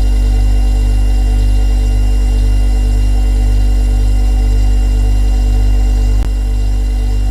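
Refrigerator running with a steady low hum and a few fainter steady higher tones. A single click comes about six seconds in, after which the hum briefly softens a little.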